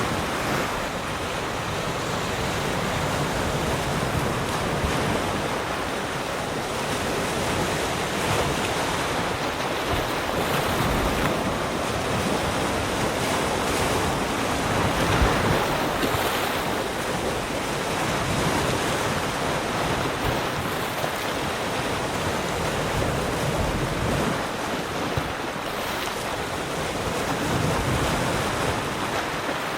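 Sea surf: waves breaking and washing on the shore in a continuous rushing wash that swells and eases gently.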